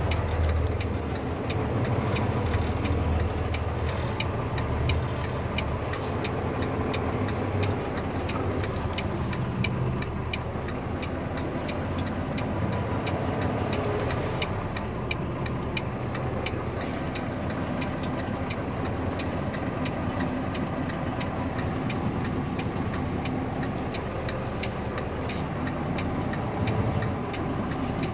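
Tractor-trailer's diesel engine running at low speed while reversing into a loading dock, with a steady ticking about twice a second over it.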